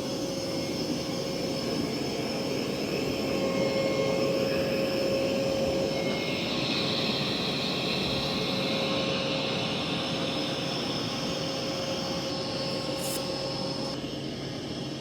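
Mova V50 robot vacuum running over carpet: a steady suction-fan whir with a steady hum, and a higher hiss that swells for a few seconds midway.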